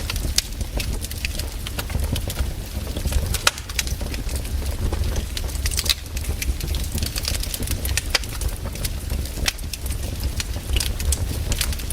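Wood fire crackling: irregular sharp pops and snaps, some loud, over a steady low rumble of the burning fire.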